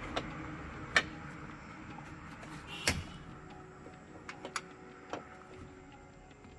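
Irregular sharp clicks and knocks, as of hand tools being handled on metal car parts: a loud one about a second in, another near three seconds, then a few lighter ticks.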